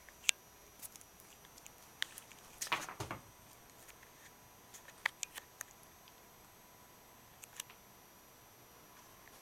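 Scattered light taps and clicks from a cat playing with a mouse, with a brief, louder scuffle about three seconds in.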